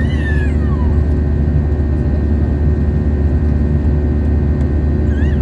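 Steady low cabin noise of an Airbus A320-200 in flight. Over it, a baby's high squeal rises and falls away in the first second, and a brief second squeal comes near the end.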